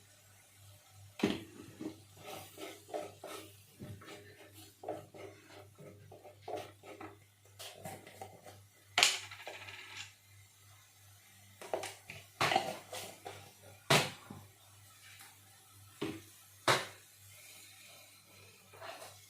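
Dishes and kitchenware being handled: irregular clinks and knocks, a few sharper clacks among them, over a low steady hum.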